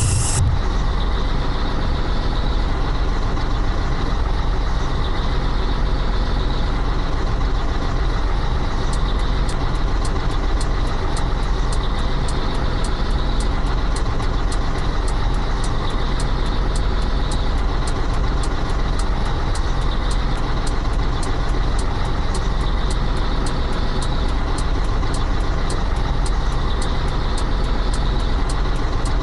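Scania 113H truck's 11-litre straight-six diesel running steadily under way, a constant deep drone. About nine seconds in, a fast, even ticking of roughly three a second joins it and keeps going.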